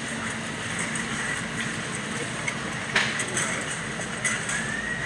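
Steady background noise of a large warehouse store, with scattered clicks and a sharp knock about three seconds in, and a short rising tone near the end.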